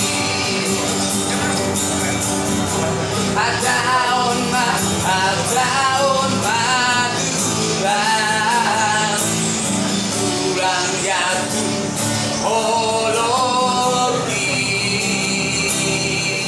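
A street busker's male voice singing a Batak song with wavering, sustained notes over steady instrumental accompaniment; the singing comes in a few seconds in and drops out near the end, leaving the accompaniment.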